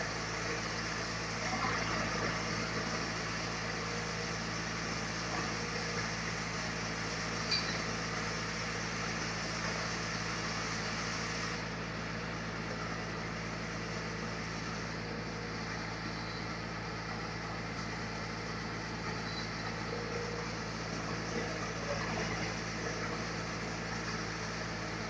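Sawmill machinery running steadily, a constant engine-like hum with no clear change through the stretch.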